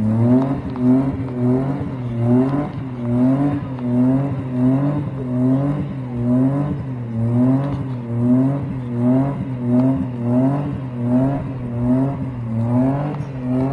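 Car engine held at moderate revs, its pitch and loudness swinging up and down evenly a little under twice a second, as in repeated pulses of throttle.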